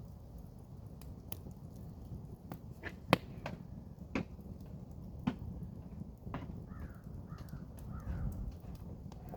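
Campfire crackling, with irregular sharp pops from the burning wood over a low steady rumble of the flames, the loudest pop about three seconds in. Near the end a bird calls four times in quick succession.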